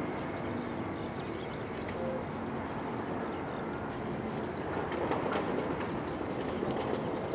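Airbus A330-300's General Electric CF6-80E1 turbofans running at takeoff power, a steady roar that swells slightly about five seconds in.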